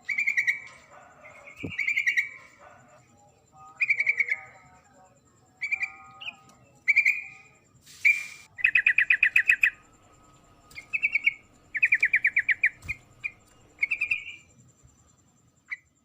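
Female yellow-vented bulbul (trucuk) calling to males: short chattering phrases every one to two seconds, with two longer rapid trills around the middle.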